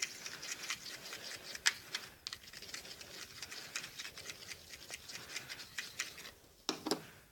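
Homemade shampoo-and-salt slime being stirred and handled, giving a quick, irregular run of small sticky clicks and squelches. The slime is turning out very sticky.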